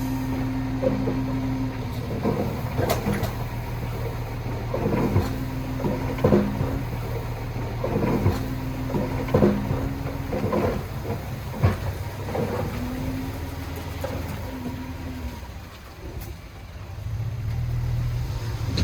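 A heavy diesel earthmoving machine running steadily. A higher steady note comes and goes over the engine, and sharp metallic knocks and clanks sound at irregular intervals.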